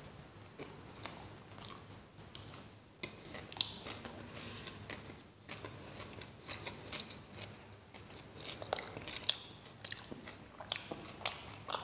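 A person chewing a mouthful of paratha with raw onion, with many short crunches from the onion.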